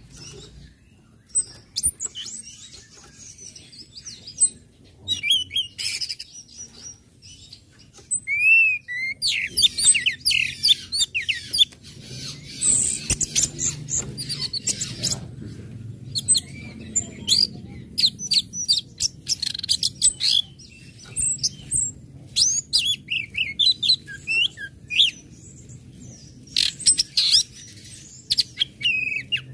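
Orange-headed thrush calling: rapid clusters of short, high chirps and twittering notes, some sweeping sharply up or down, broken by brief pauses, in the ngecit and ngecip call styles.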